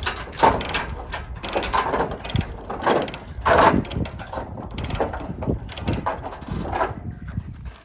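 Irregular metallic clanking and ratcheting, in uneven strokes of varying loudness, from tie-downs being worked loose to unload a tractor from a trailer.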